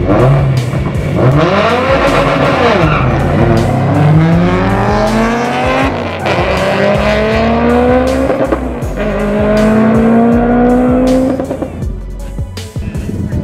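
Subaru Impreza's turbocharged flat-four accelerating hard off the line down a drag strip, its pitch climbing through the gears and dropping back at each upshift, with background music underneath.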